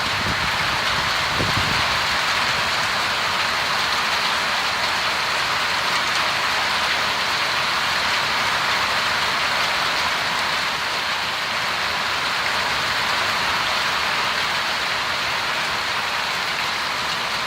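Heavy rain pouring down in a storm, a steady, unbroken hiss.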